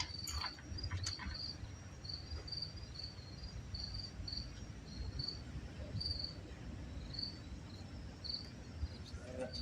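Cricket chirping: short, high chirps about two a second, over a low background rumble. A few light clicks come in the first second and a half.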